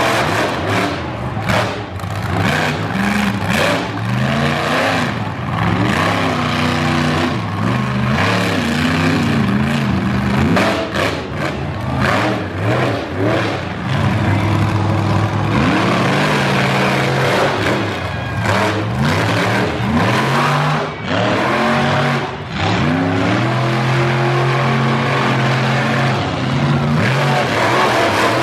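Monster truck engine revving hard, its pitch climbing and dropping again and again as the throttle is worked, with sharp bangs now and then.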